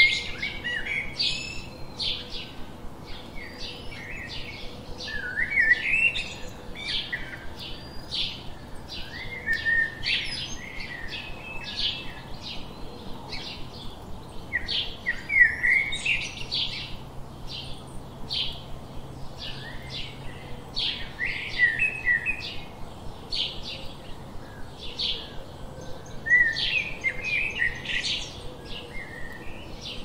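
Songbirds chirping: a steady run of short, sharp chirps, about two a second, with warbling, gliding song phrases coming in every few seconds.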